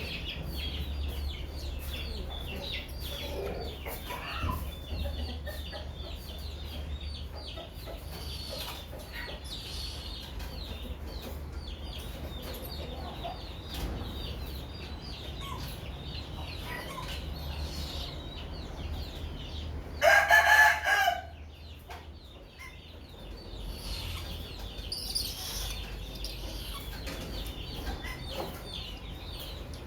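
A rooster crows once, loud and drawn out, about two-thirds of the way in, over a steady background of faint high-pitched chirping and a low rumble.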